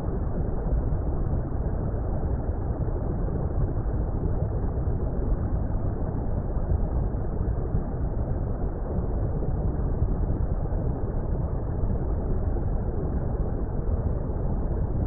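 Steady, muffled underwater water rumble: an even wash of noise weighted heavily toward the bass, with no treble, unchanging throughout.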